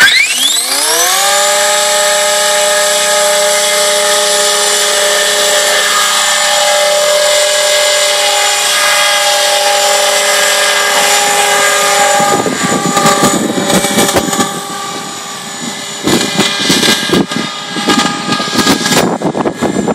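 500-size RC helicopter spooling up: a whine rises sharply over about a second, then holds as a steady high motor and gear whine under the rotor. From about twelve seconds the sound turns rough and uneven, rising and falling in loudness.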